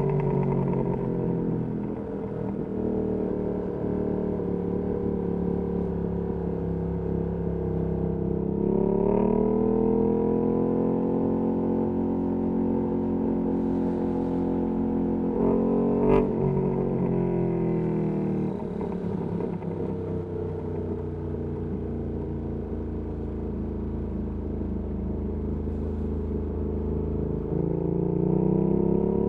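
Ducati Panigale V2S V-twin engine through its Termignoni exhaust, heard from the rider's seat. Its pitch rises as it accelerates about nine seconds in, and a single sharp click comes about halfway through. The pitch then falls as it slows, holds low and steady, and climbs again near the end.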